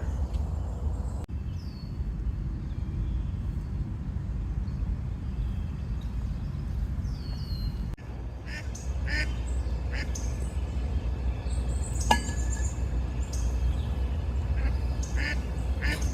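Ducks quacking in short repeated calls from about halfway in, with a few thin falling chirps from small birds earlier. A steady low rumble runs underneath, and there is a single sharp click near the end.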